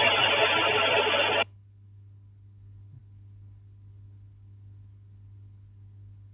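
Loud rushing road noise from a driving car's dashcam audio cuts off abruptly about a second and a half in, leaving a faint steady low electrical hum.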